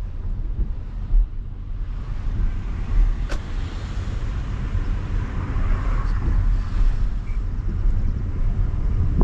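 Chevrolet Camaro on the move, a steady low rumble of engine and road noise, with one sharp click a little over three seconds in.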